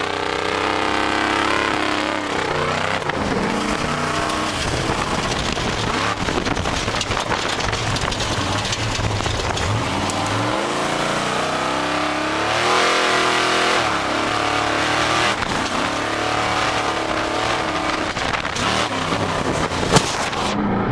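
Car engine running hard, its pitch rising and falling several times as it revs. A single sharp click near the end.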